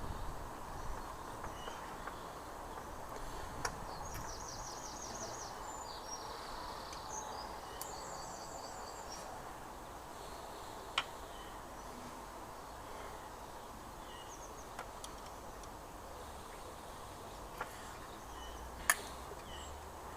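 Steady outdoor background noise with a bird singing two short phrases of quick repeated high chirps in the first half. A few sharp clicks stand out, the loudest near the end.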